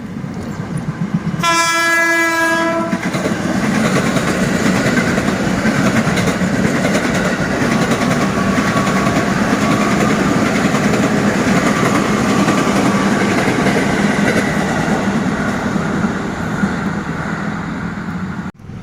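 A train sounds its horn once, one steady note of about a second and a half, near the start, then runs past close by with a loud steady rumble that cuts off suddenly near the end.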